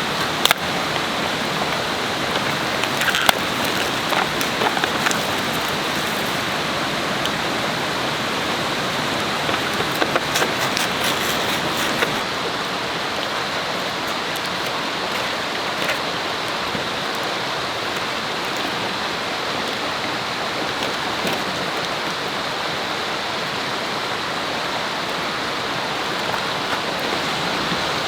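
Steady rush of river water flowing, with a few sharp clicks and crackles in the first dozen seconds.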